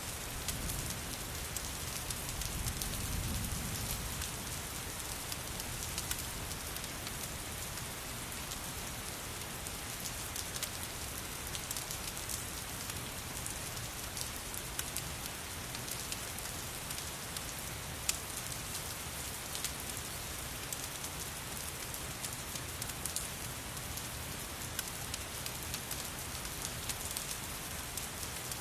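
Steady rain pattering, mixed with a wood fire whose scattered sharp crackles and pops stand out above it. A soft low rumble swells briefly a few seconds in.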